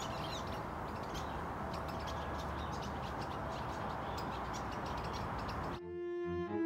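A flock of black-chinned yuhinas calling: many quick, high chirps and short trills over a steady background hiss. Near the end it cuts abruptly to bowed-string music.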